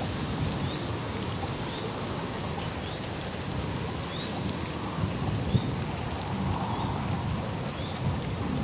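Steady rain falling, with a faint short high chirp repeating about once a second and one sharper drop or tap about halfway through.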